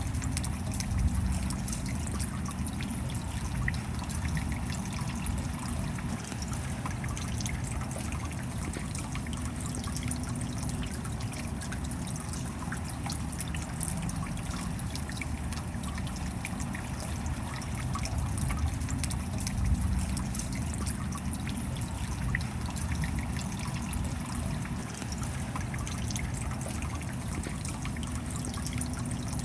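Rain falling steadily: a continuous hiss dotted with many small ticks of drops striking.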